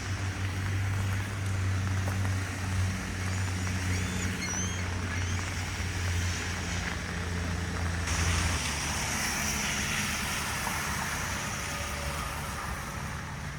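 Wet street ambience: a steady low engine hum from nearby road traffic, with a hiss that grows louder about eight seconds in as the hum fades away.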